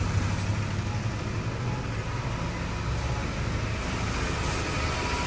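A car engine running steadily: an even low hum under a steady rush of noise.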